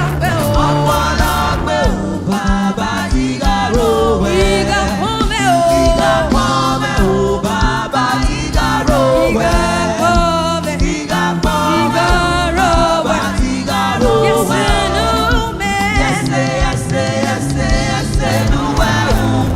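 Gospel praise music with several voices singing over a band with a steady bass line.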